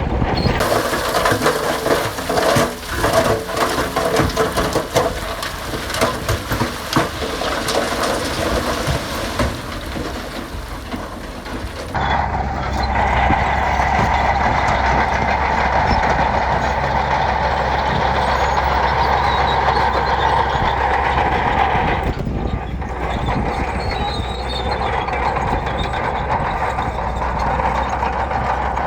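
Heavy diesel earthmoving machinery working gravel. For about the first twelve seconds there is dense clattering and crunching over the engine. The sound then changes abruptly to a steadier, heavier engine drone, with a brief break a little over twenty seconds in.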